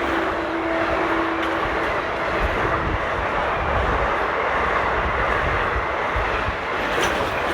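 Electric local train running past at speed, a steady loud roar and rattle of wheels on rail. The tail of its two-tone horn dies away about a second in.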